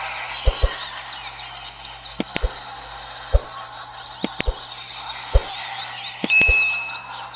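Many double-collared seedeaters (coleiros) singing at once in a tournament circle, a dense overlapping chatter of quick high chirps and trills. About ten sharp knocks are scattered through it, and near the end a single high note is held steady for over half a second.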